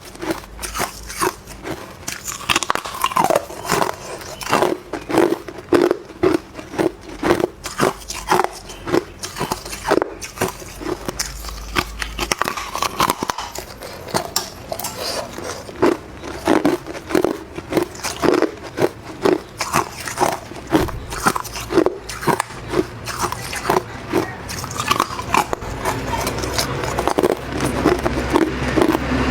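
Hard clear ice being bitten and chewed: a steady run of sharp, cracking crunches, several a second.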